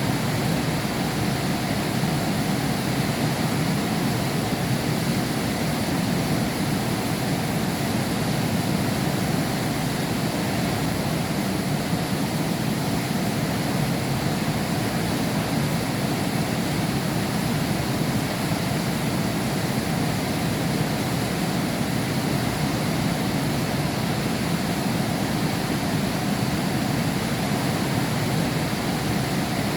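Heavy rain falling steadily, heard through window glass as an even, unbroken rushing hiss.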